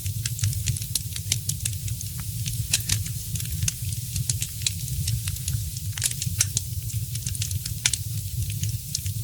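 Fire crackling in a fireplace: many sharp, irregular pops and snaps over a steady low rumble.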